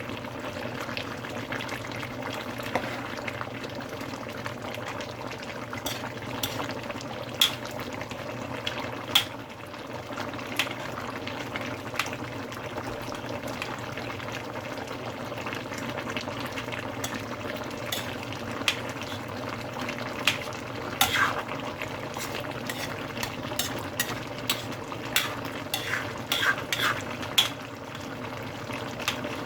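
Chicken curry cooking in a pan with a steady bubbling sizzle, while a spoon clicks and scrapes against the pan as it is stirred. The clicks come in clusters, thickest near the end.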